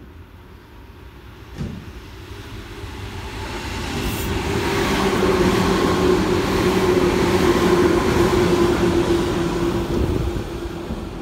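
Tobu 10050 series electric commuter train passing through without stopping: the noise of wheels on rail, with a steady hum, builds over the first few seconds, stays loud while the cars go by, and eases off near the end.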